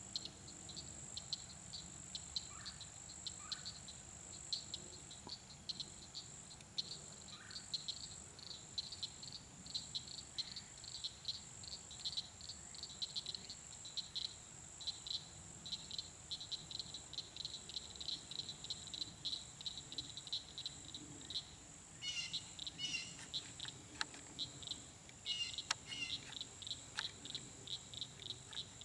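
Insects in a swampy woodland chorusing: a steady high shrill with rhythmic chirping at about two to three pulses a second. Short chirping calls from frogs or birds break in twice near the end.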